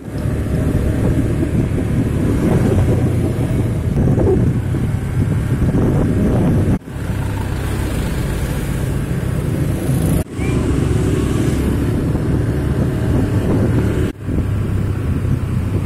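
Steady road-vehicle engine and road noise with wind buffeting the microphone, broken by three brief dropouts.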